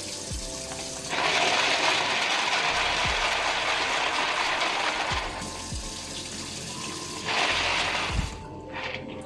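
Tap water running in two spells, about four seconds and then about a second, over shellfish being rinsed, with the shells clattering against each other.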